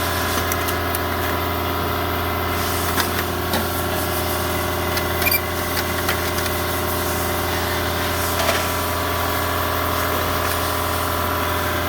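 Engine running at a steady idle, an even hum with a few light clicks and knocks over it.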